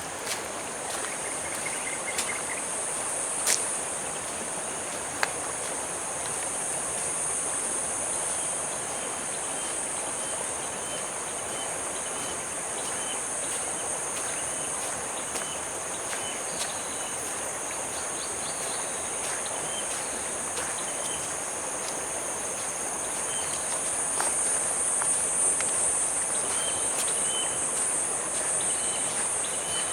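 A steady, high-pitched chorus of insects, with shorter repeated chirps from another insect coming and going over a soft wash of background noise. Two sharp clicks sound a few seconds in.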